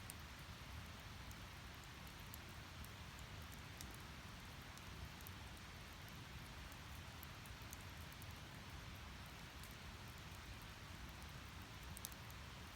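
Split firewood logs burning in an open campfire: a faint, steady rush of the flames with scattered small crackles and pops, and one sharper pop near the end.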